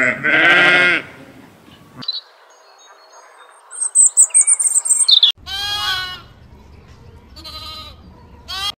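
A series of different animal calls: a loud pitched call lasting about a second at the start, then high, rapid bird chirping, then several shorter pitched animal cries near the end.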